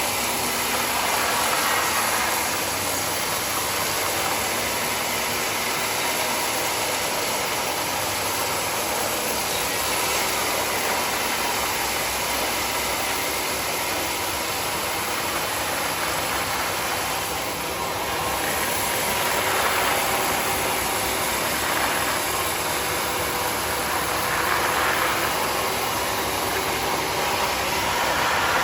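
Sawmill running with its blade cutting through mahogany wood: a steady, loud machine noise that swells and eases several times.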